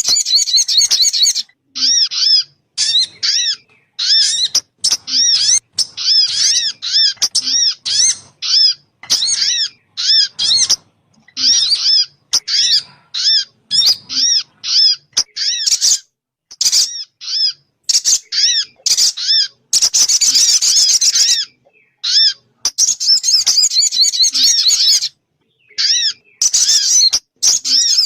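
Lure call (suara pikat) of the bird called sogun: rapid runs of short, arched chirping notes that rise and fall in pitch, repeated several a second in bursts with brief pauses between them.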